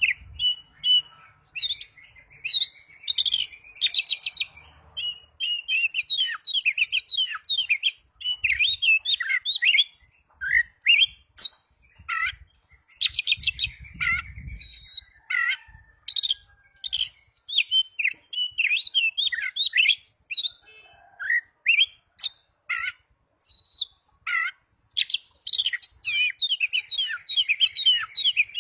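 Oriental magpie-robin (kacer) singing energetically: a rapid, varied run of whistles, trills and chirps in quick phrases with short gaps between them.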